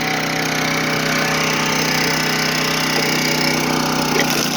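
Small gas engine of a log splitter running steadily at a constant speed.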